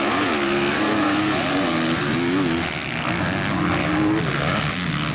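Several motocross bikes racing, their engines revving up and down in overlapping, wavering pitches.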